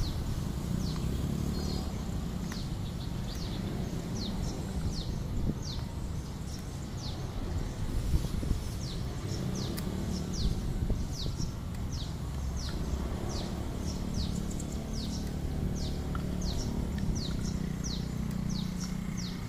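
A bird calling over and over: quick high notes, each falling in pitch, about two a second, over steady low background noise.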